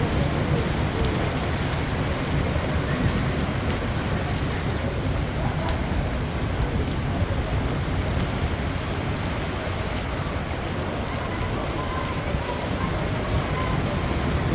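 Heavy rain pouring steadily, with a low rumble underneath and scattered small drip ticks.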